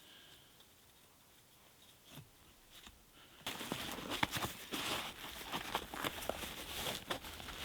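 Near silence with a few faint clicks, then from about three and a half seconds in a dense run of crunching and rustling.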